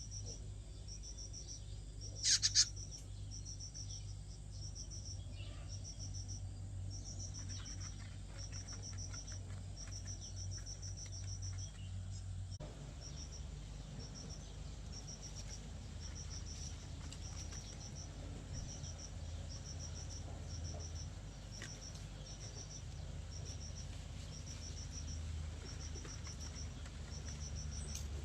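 Crickets chirping in a steady, even rhythm of short pulsed chirps, about one to two a second, over a steady low hum. A brief, loud double chirp cuts in about two seconds in.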